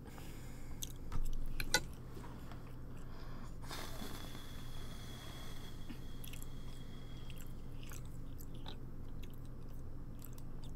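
Close-miked mouth sounds of a woman chewing food, with small wet clicks and a louder noise about a second in. A low steady hum runs underneath.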